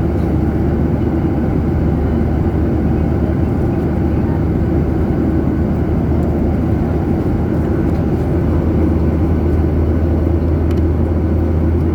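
Steady drone of jet engines and rushing air heard inside an airliner cabin, heaviest in the low end, with a constant low hum and no change in pitch or loudness.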